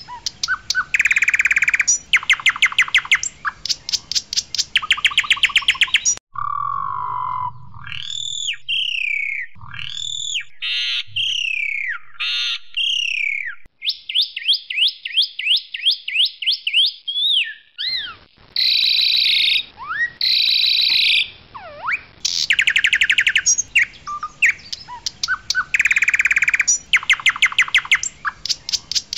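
Asian pied starling (jalak suren) singing loudly. Bursts of fast, harsh rattling trills alternate with clear whistled notes that slide up and down, and a run of short, repeated falling notes comes in the middle.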